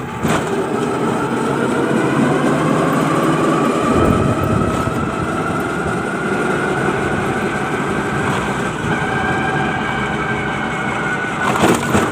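A vehicle engine running steadily under a loud rumble, its whine rising slowly in pitch.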